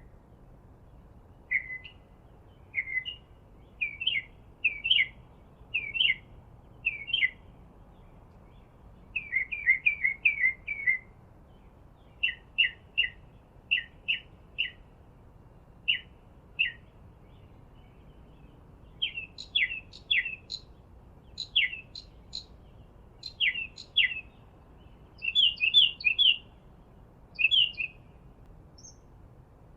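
Songbird chirping: short chirps about once a second, sometimes in quick runs of four or five, with higher, sharper notes joining in the second half.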